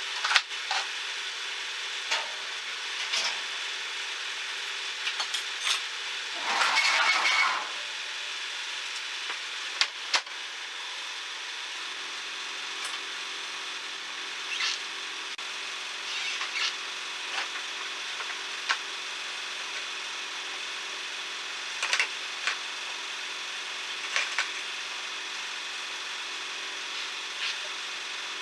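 Citroën 2CV's freshly overhauled air-cooled flat-twin engine running steadily, with scattered short clicks and rattles. Its note shifts slightly about twelve seconds in.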